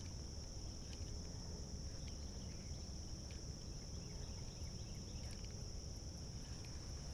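Steady high-pitched insect chorus holding one even pitch, over a low rumble and a few faint clicks.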